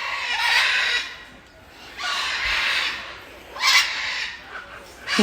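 Parrots squawking: three harsh, raspy screeches, the first two about a second long and the third short.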